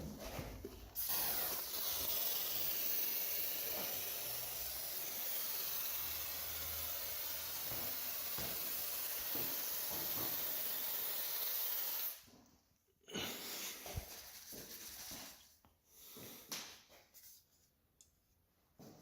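Aerosol can of garage door lubricant spraying in one long, steady hiss of about eleven seconds that cuts off suddenly; a few faint, short sounds follow.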